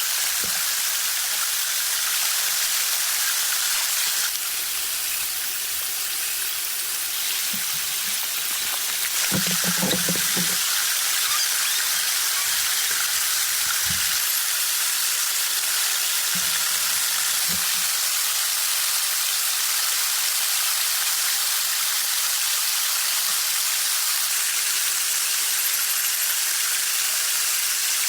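Steady rain hiss, with a few soft low thumps near the middle.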